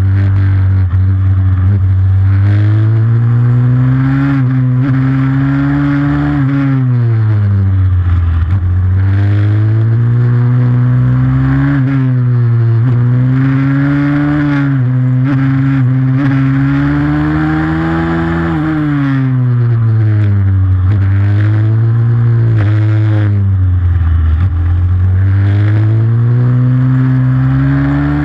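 Pit bike engine at racing speed, its pitch climbing under acceleration and dropping sharply again and again through gear changes and braking.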